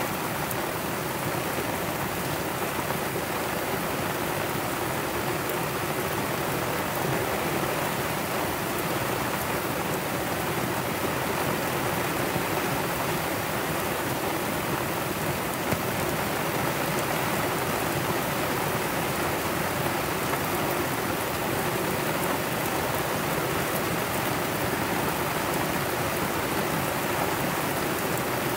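Heavy tropical-storm rain pouring steadily onto a sailboat and the sea around it, a dense, even hiss with no let-up.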